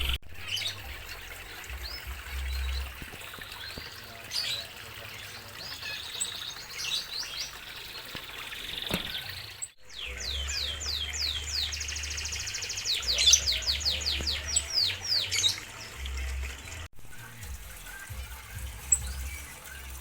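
Zebra finches chirping and calling, with a run of quick falling notes and a buzzy note about halfway through.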